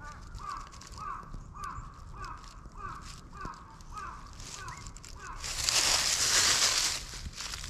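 A bird calls over and over in short hooked notes, about two a second, for the first few seconds. Near the end comes a louder rustling noise lasting about a second and a half.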